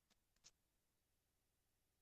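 Near silence: room tone, with two faint short clicks in the first half second.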